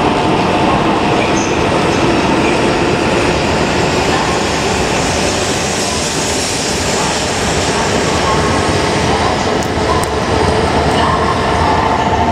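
E5 series Shinkansen train running past close along the platform: a loud, steady rush of wheel and running noise, with a high whine at the start and again near the end.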